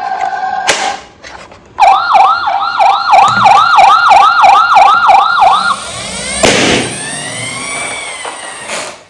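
Electronic siren of a toy emergency vehicle. A brief steady tone, then after a short pause a fast warbling yelp at about three cycles a second for roughly four seconds, then a sudden burst of noise and a slower wailing tone that cuts off with a click near the end.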